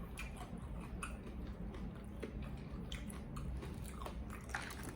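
A person chewing and biting a mouthful of food close to the microphone, with many small irregular wet, crunchy clicks.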